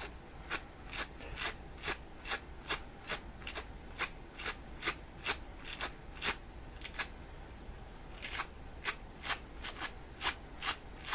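Wire-toothed cat brush stroked over fleece fabric to pull off pills, in short raspy strokes about two or three a second, with a pause of about a second a little past the middle.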